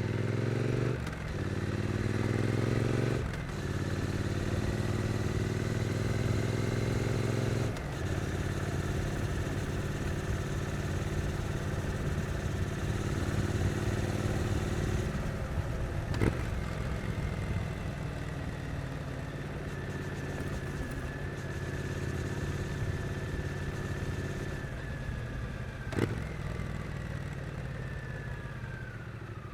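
Triumph Street Twin's 900 cc parallel-twin engine riding in traffic. It pulls up through gears with three quick upshifts in the first eight seconds, then cruises steadily with a faint high whine. There are two sharp clicks about 16 and 26 seconds in, and the revs fall away near the end as it slows.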